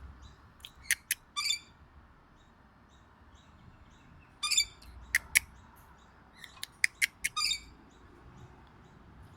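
Parrots calling with short, sharp chirps and buzzy screeches, in three brief clusters: about a second in, around the middle, and again a couple of seconds later.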